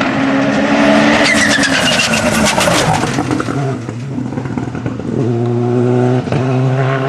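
Hillclimb race car passing at full throttle, loud, its engine note sliding down in pitch as it goes by. About five seconds in, a steady engine note takes over, broken once by a short gap like a gear change.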